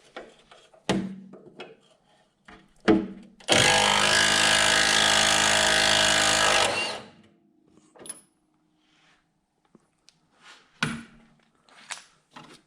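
A handheld power tool runs steadily for about three seconds, then winds down, with sharp metallic clanks of tools and parts before and after it.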